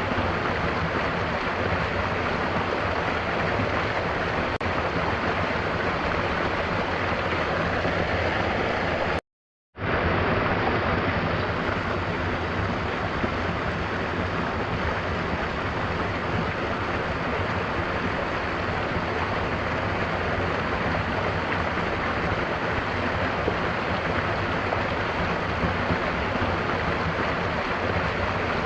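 Mountain waterfall pouring with a steady, even rush of water. About nine seconds in the sound cuts out completely for half a second, then comes back in.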